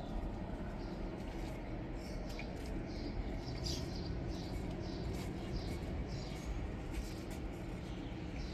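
Small birds chirping: short, high chirps repeating irregularly, over a steady low background rumble.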